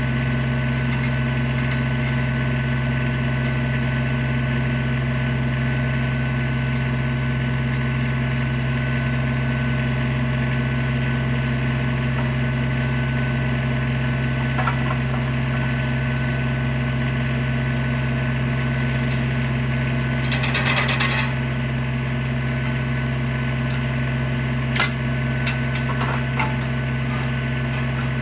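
Tractor engine running steadily, with a short rattling burst about two-thirds of the way through and a few sharp metallic clicks near the end.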